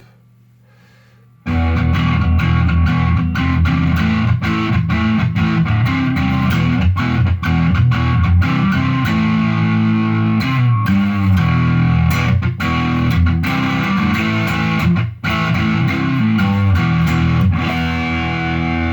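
Electric guitar, a Telecaster with a Seymour Duncan Hot Rails pickup in the neck position, volume and tone full, played through a Fender Bassbreaker amp. A faint steady amp hum is heard, then about a second and a half in a riff of picked chords and notes starts, with a short break near the end.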